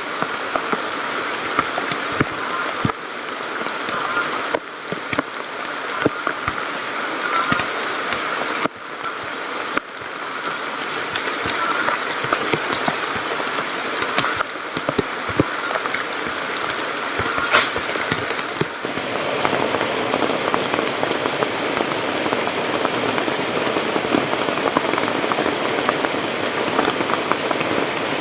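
Heavy rain with many drops striking a surface, over rushing stream water. About 19 seconds in, the sound changes to a louder, denser rush.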